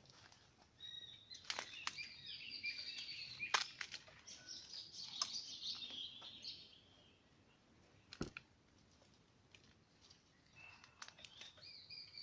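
Birds chirping and chattering in two busy spells, the second starting near the end, with scattered sharp clicks throughout.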